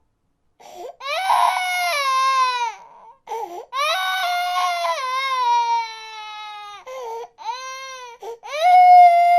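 A baby crying: a run of long, high wails, each sliding down in pitch, broken by short catching breaths, the loudest wail starting near the end.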